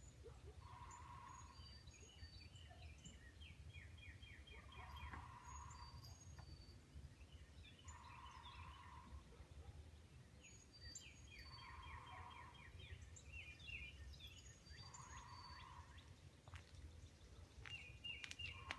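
Faint outdoor birdsong: a short steady note with a run of quick falling notes, repeated about every three to four seconds, with scattered high chirps from other birds over a low background rumble.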